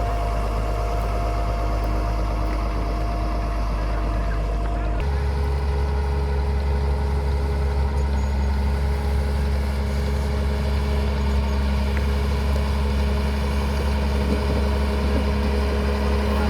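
Caterpillar motor grader's diesel engine running steadily under work; its note changes abruptly about five seconds in and then holds steady.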